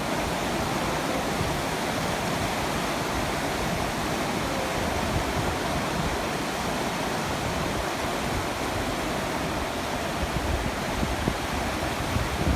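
Floodwater rushing and flowing in a steady, even noise.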